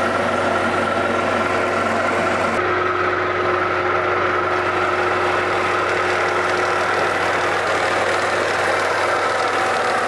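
Portable band sawmill running steadily, its engine held at an even speed while the mill works a log. The high-pitched hiss drops away about two and a half seconds in, while the engine note carries on unchanged.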